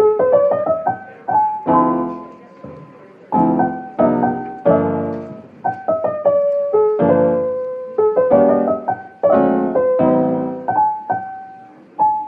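Solo piano background music: chords struck every second or so, each decaying, under a simple melody of single notes.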